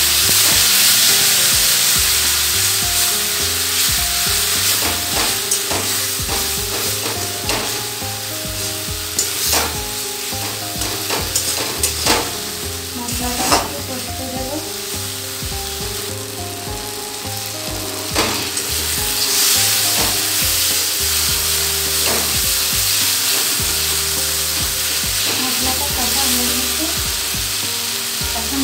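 Onion-tomato masala sizzling in hot oil in a steel kadai, loudest in the first few seconds just after water is poured in. A metal spatula stirs it, with scattered sharp scrapes and taps against the pan.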